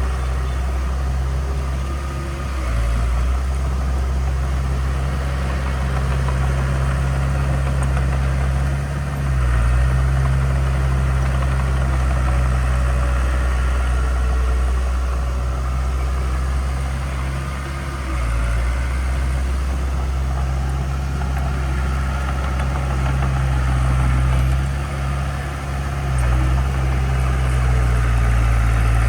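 Diesel engine of heavy construction equipment running steadily with a low hum, its pitch and loudness shifting briefly a few times.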